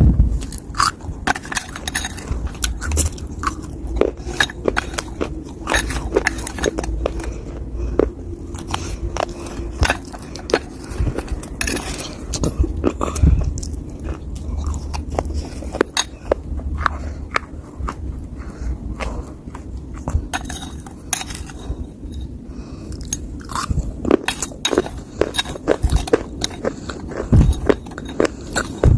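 A person biting and chewing lumps of dry clay and soil close to the microphone, giving many sharp crunches all the way through.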